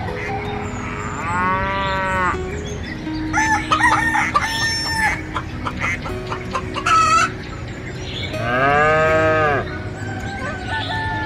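Rooster crowing twice, about a second in and again later, with chicken clucking in between.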